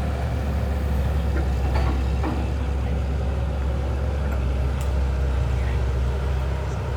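An engine running steadily with a low rumble, with a few faint clicks and knocks over it.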